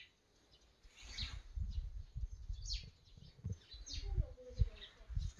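Birds chirping in short, quickly falling calls, about five times, over a low, uneven rumble on the microphone.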